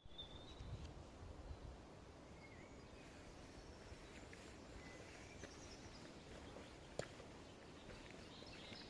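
Faint birds chirping here and there over quiet outdoor background noise, with a low rumble in the first couple of seconds and a single sharp click about seven seconds in.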